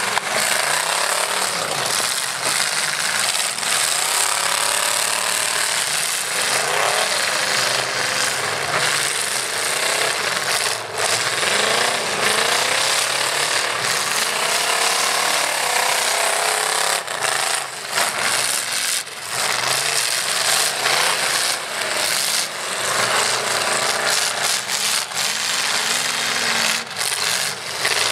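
Several truck engines revving up and down at once in a demolition derby, with scattered metal crashes and scraping as the trucks ram and push each other.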